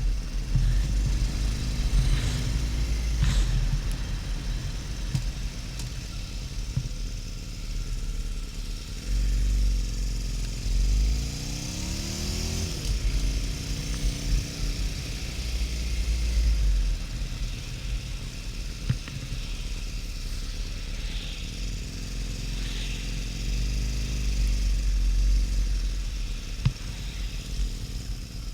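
Harley-Davidson XL1200N Sportster's air-cooled V-twin under way at road speed, with heavy wind rumble on the microphone. About ten seconds in, the engine note rises as the bike accelerates, then drops at a gear change. It rises and eases again briefly near the end.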